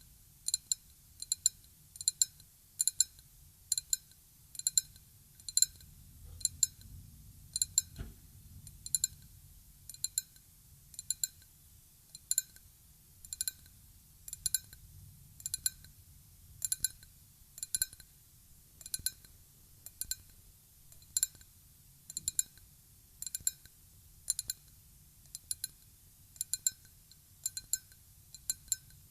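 Ryukyu glass being tapped in a steady, unhurried run of light taps, about one or two a second. Each tap gives a short, clear glassy ring.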